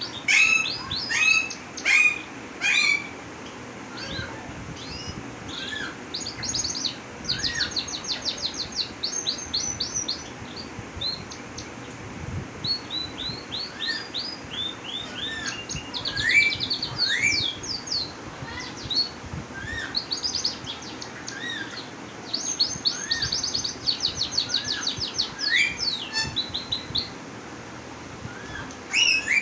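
A male songbird singing: sharp downslurred chirps mixed with fast rattling trills of high notes, the trills returning several times.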